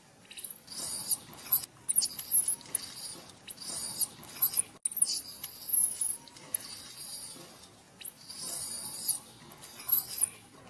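A baby monkey screaming, a string of about ten shrill, very high-pitched squeals, each under a second long, with brief pauses between them.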